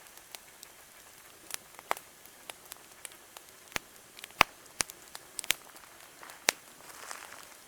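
Wood campfire crackling: scattered, irregular sharp pops and snaps over a faint hiss, a few of them much louder than the rest.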